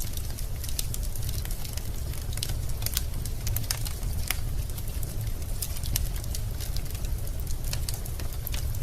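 Wood fire burning in a fireplace: irregular sharp crackles and snaps from the logs over a steady low rumble.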